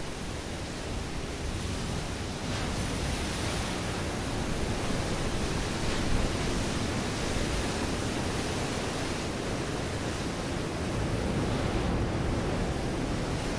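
Ocean surf washing against a rocky shore: a steady roar of water that swells about two and a half seconds in.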